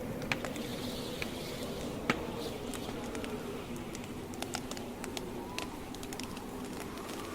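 Campfire burning: a steady low rush of flames with scattered sharp crackles and pops from the burning logs, the loudest pop about two seconds in.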